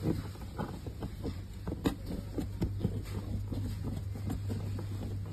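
Irregular light taps and clicks, like parts being handled, over a steady low hum.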